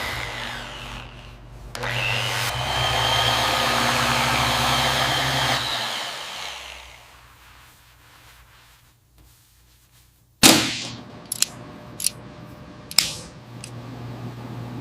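A power tool whirring with a rising whine for a few seconds, then winding down and fading away. Near the end, a sharp knock is followed by several lighter clicks.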